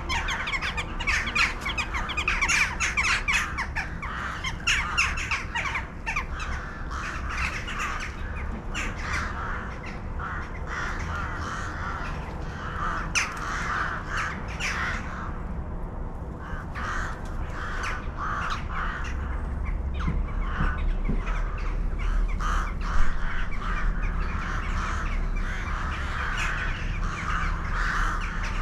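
A large flock of crow-family birds cawing, many short harsh calls overlapping without pause, over a steady low rumble.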